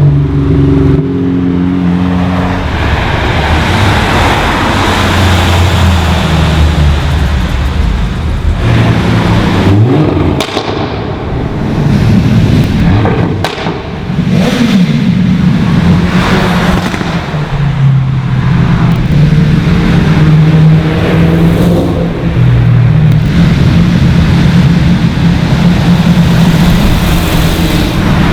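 Several modified cars passing at speed one after another, their engines revving and rising and falling in pitch as they go by.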